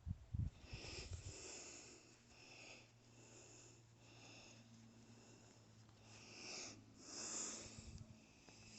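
Faint, audible breathing of a person close to the microphone, in and out every second or two, with a few low thumps in the first second or so.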